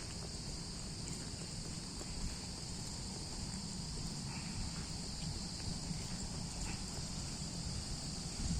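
Steady, high-pitched chorus of insects in the woods, running without a break.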